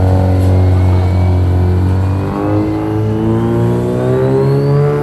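Car engine running steady and low, then revving up, its pitch rising steadily through the second half.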